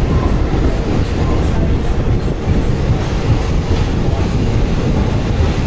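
Moving train on the rails, a steady loud low rumble of wheels and running gear.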